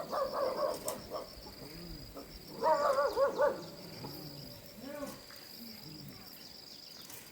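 Insects trilling steadily in a high, pulsing tone, with two short bursts of wavering, high-pitched cries: one at the start and one about three seconds in.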